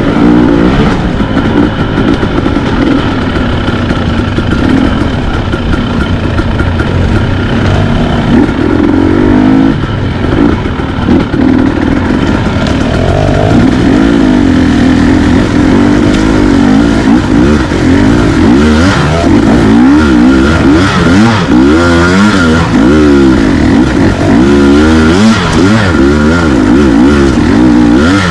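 Dirt bike engine being ridden hard, its pitch climbing and dropping again and again as the throttle is opened and closed, with quicker swings in the second half.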